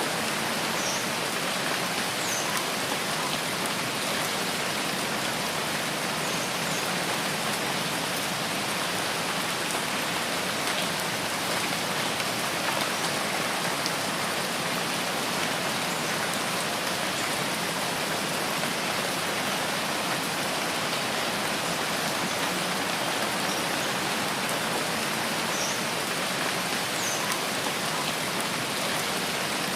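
Steady rain falling: an even, unbroken hiss of rain that keeps the same level throughout.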